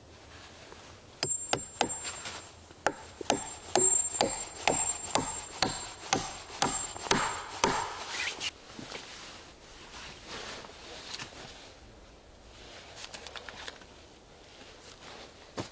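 Wood being struck over and over with a tool, sharp knocks about two to three a second for around seven seconds, then softer handling sounds.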